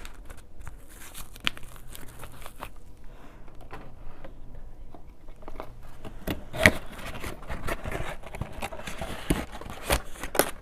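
Packaging rustling and crinkling as a handheld infrared thermometer is put back into its box, with scattered small clicks and knocks. The loudest knock comes about two-thirds of the way through.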